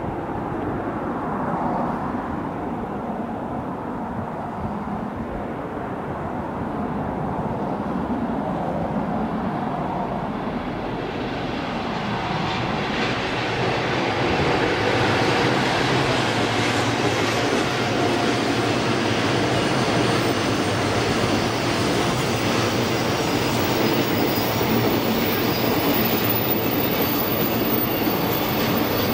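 A freight train of container wagons, hauled by an ED76 electric locomotive, rolls past. The steady rumble of wheels on rail grows louder and brighter about a dozen seconds in, as the wagons pass close.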